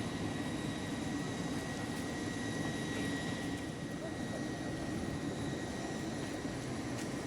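Steady drone of aircraft engines running, with a thin high whine held over it and faint voices in the background.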